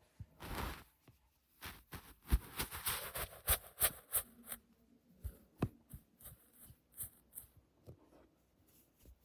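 Close-miked ASMR fingertip tapping and scratching: a short brushing sweep near the start, then a run of quick light taps and clicks that is densest about two to four seconds in and thins out near the end.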